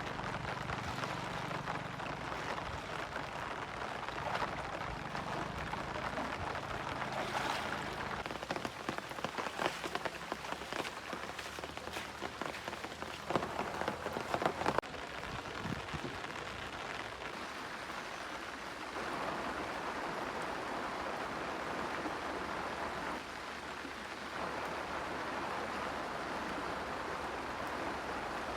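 Rain falling steadily on surfaces: a constant hiss with scattered sharp drop clicks, thickest in the middle, and a low hum under it in the first few seconds.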